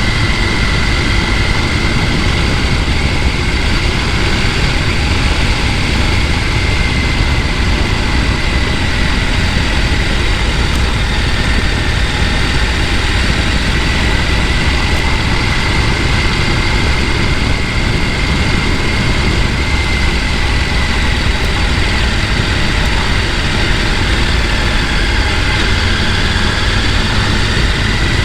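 Steady rushing of a mountain stream, a continuous noise with a heavy low rumble. A thin high tone wavers slightly above it throughout.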